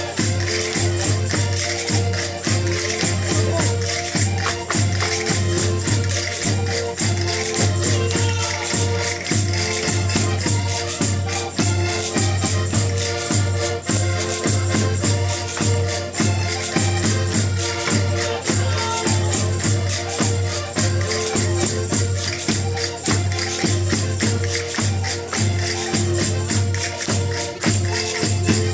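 Portuguese folk music played by a folk group, with held melody notes over a steady, quick beat of percussion.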